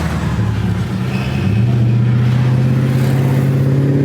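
Car engine running at a steady note that steps up in pitch about a second and a half in, then holds there.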